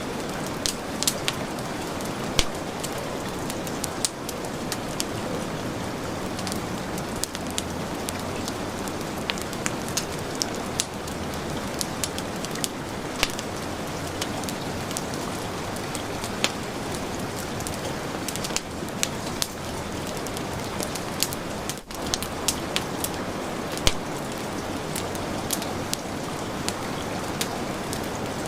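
Heavy rain falling steadily, mixed with a wood fire crackling, its sharp pops scattered irregularly through the rain.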